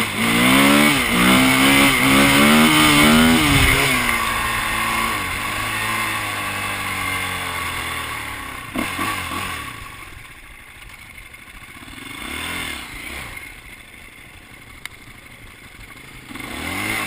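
Dirt bike engine revving up and down as it rides away, fading off, then coming back faintly twice as it passes at a distance.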